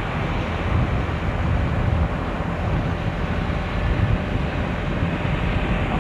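Steady wind rumble over the microphone from a moving motorcycle, with engine and road noise underneath.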